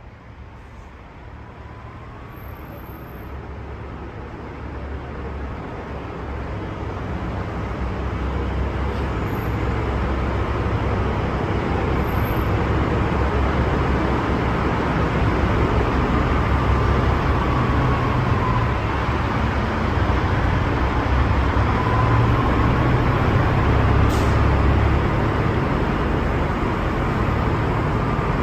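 Heavy road traffic with truck engines rumbling, growing louder over the first ten seconds or so as it draws near, then steady.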